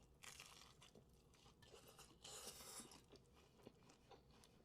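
Very faint, soft mouth and food-handling noises of sushi being eaten or prepared. There are two brief hissy swells, a short one just after the start and a longer one around two seconds in, with a few small clicks between.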